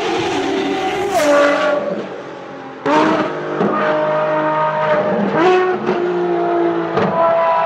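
Ferrari racing car engine running at high revs on track, its pitch stepping between gears: down about a second in, then up twice later, with an abrupt jump in loudness near the middle.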